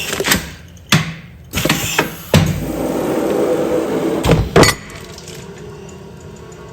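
Commercial food-container film sealing machine cycling: a series of sharp clunks with a steady mechanical whirr between them for a few seconds, then a quieter hum.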